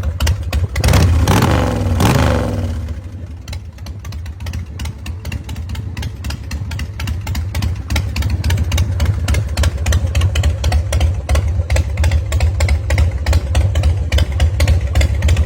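2003 American IronHorse Tejas chopper's 107 cubic inch V-twin engine blipped once about a second in, its pitch falling back, then idling with a rapid, uneven firing beat.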